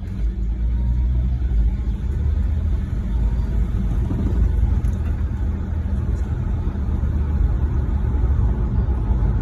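1989 Dodge Dakota pickup being driven, its engine and road noise making a steady low rumble.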